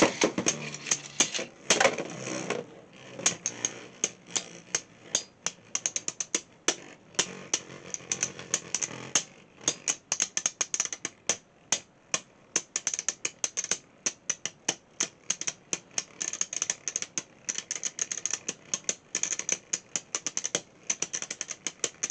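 Beyblade X tops Wolf Hunt and Wizard Rod spinning in a plastic stadium, with a loud burst at the start and another about two seconds in, then many sharp clicks and knocks as they clash and grind through a long stamina battle.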